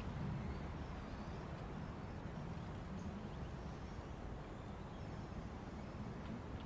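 Forest ambience: a steady low rush of wind moving through trees, swelling slightly, with faint high bird chirps now and then.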